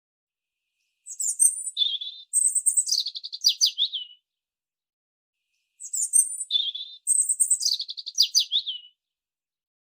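A small songbird's song: a quick phrase of high chirps dropping into a fast trill, heard twice, the two phrases identical and separated by a few seconds of silence.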